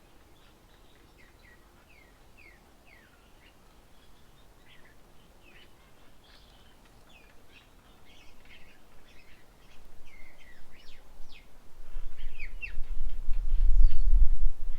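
Birds at a feeding table chirping and calling over and over in short quick notes, some gliding down in pitch. In the last few seconds a low rumble swells up and becomes the loudest sound, then drops away abruptly.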